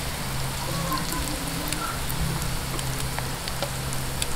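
Sesame-coated sweet potato (kamote) sticks deep-frying in hot oil: a steady sizzle with scattered small pops and crackles.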